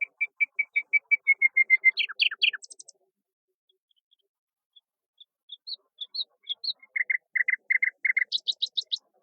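A songbird singing two songs. Each is a quick series of repeated clear notes, followed by a higher, faster ending flourish. The first song ends about three seconds in, and the second starts about two seconds later.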